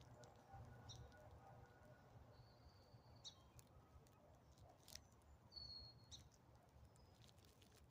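Near silence with a few faint, short, high bird chirps, about three seconds in and again near six seconds, over a low background rumble.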